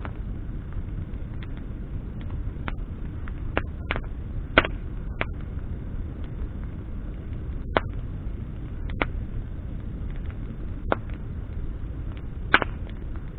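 Wood bonfire burning, with irregular sharp crackles and pops from the burning branches over a steady low rumble; two pops stand out, about a third of the way in and near the end.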